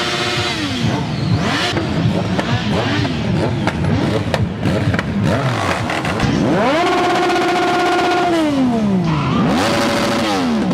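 Sport motorcycle engines revving. Wavering, overlapping engine notes give way about six seconds in to one engine revved sharply up, held high for over a second and let fall, followed by a shorter blip near the end.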